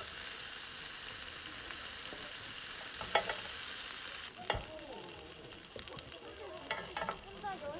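Food frying and sizzling in a pan, with a few sharp utensil clicks against the pan. The sizzle gets quieter about four seconds in.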